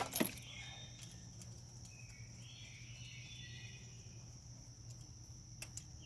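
Two sharp clicks at the very start, then a few light ticks: a fuel-line quick connector on the engine being worked loose by hand. A steady high-pitched trill and a low hum run underneath.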